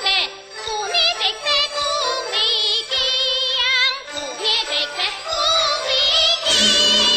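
Teochew opera music: a high, wavering melody line with quick vibrato over the ensemble, with a fuller, louder passage coming in about six and a half seconds in.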